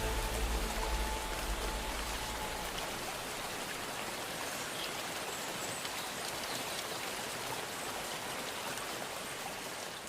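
Steady rain, an even hiss with scattered drop ticks. The last low held notes of orchestral music die away in the first couple of seconds.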